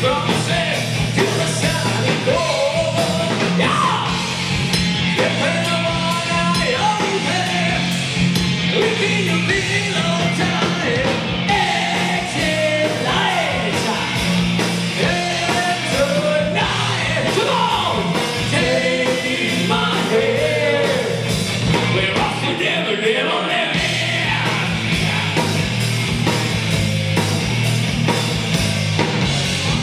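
Rock band playing live, with a singer's voice over a loud, dense band.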